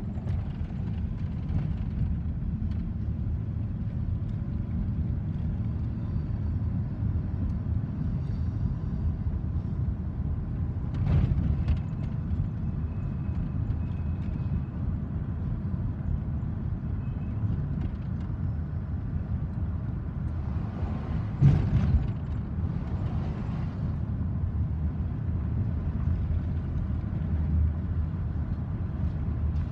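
Low steady rumble of a freight train's cars rolling past, heard muffled from inside a car with the windows closed. There is a short knock about 11 seconds in and a louder clatter around 21 seconds.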